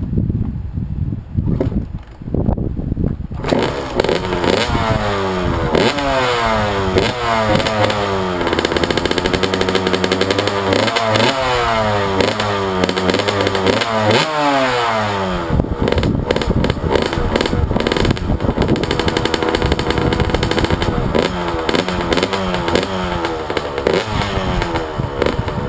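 Honda CR85's 85cc two-stroke single with a Pro Circuit Fatty expansion-chamber pipe, cold-started: a few knocks of kicking, then the engine catches about three and a half seconds in. It is revved repeatedly, pitch rising and falling, then runs more steadily with further throttle blips near the end. On this cold start the owner thinks it is probably running really rich.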